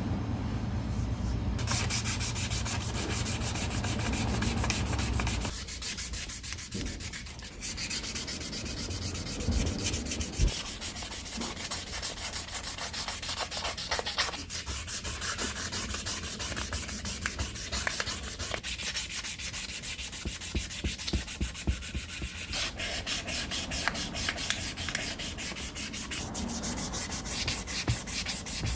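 Abrasive sanding or scrubbing by hand, many rapid back-and-forth strokes with a harsh, high-pitched scratch. A low steady hum runs under it for the first five seconds or so.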